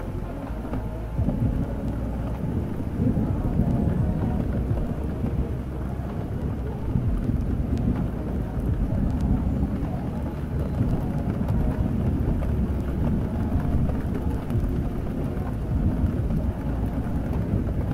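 Steady rain with a deep, continuous low rumble underneath.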